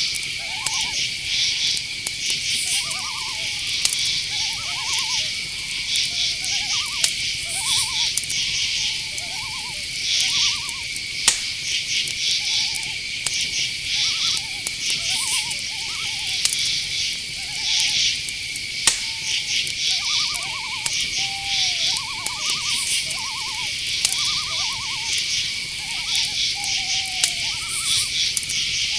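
Night forest chorus: insects make a steady high-pitched drone and crickets chirp in rapid pulsed trills, while owls give many short, wavering calls, one every second or so. A couple of sharp clicks stand out.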